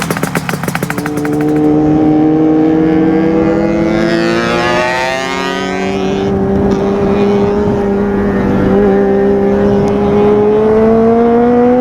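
Yamaha RZ250's two-stroke parallel-twin engine through YUZO MRD expansion-chamber exhaust, under way: its pitch drops briefly at the start, then climbs slowly and steadily as the bike pulls in one gear.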